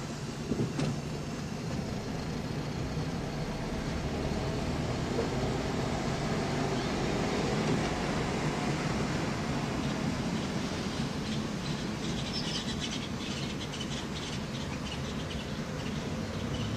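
Car engine and tyre noise heard from inside the cabin while driving steadily, with the engine tone slowly rising partway through. A patch of light clicking comes near the end.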